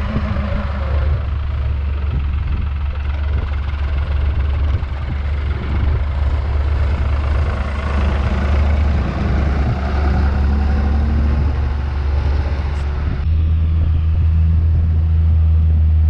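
A vehicle engine running steadily, with a strong low hum. About thirteen seconds in, the sound changes abruptly to a steadier, deeper engine hum.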